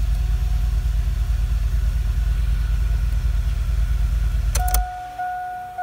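Chevy Tahoe engine idling with its electric radiator fans running, a steady low rumble. It stops abruptly with a couple of clicks near the end, and guitar music begins.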